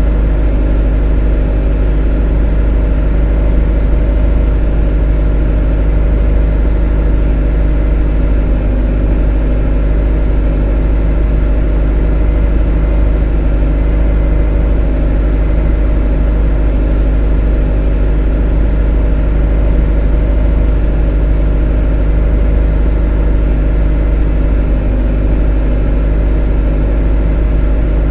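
A motor running steadily at one speed: a monotonous, unchanging drone with a strong deep rumble and a steady hum.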